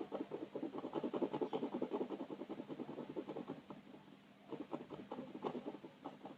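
Rapid back-and-forth colouring strokes scratching on paper, in a quick, busy rhythm. They ease off for about a second past the middle, then pick up again.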